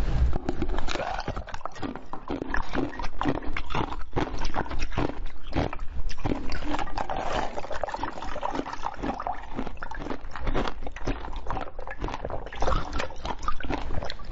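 Close-miked eating: a dense run of wet chewing and mouth clicks as soft food is eaten.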